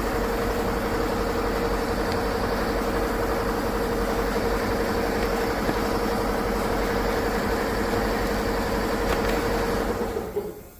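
A small high-speed power tool motor running steadily with a constant whine, then winding down and stopping near the end.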